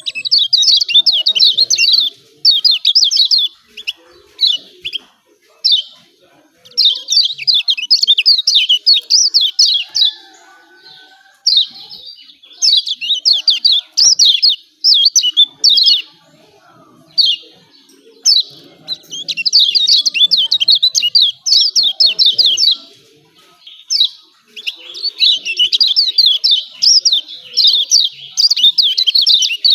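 Kecial kuning (Lombok white-eye) giving its rapid 'ciak ciak' chattering call in repeated bouts of fast high chirps, each a second to three seconds long with brief pauses between. This is the excited call played as a lure to get other kecial to start singing.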